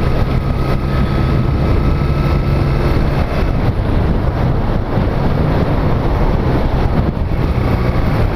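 Small motorcycle's engine running steadily while riding, with heavy wind noise on the microphone.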